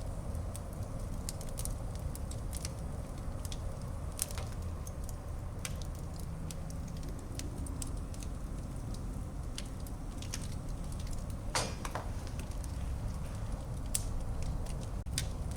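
Wood fire burning in a fireplace: a steady low rumble of flames with scattered sharp crackles and pops, and a louder double crack about two-thirds of the way through.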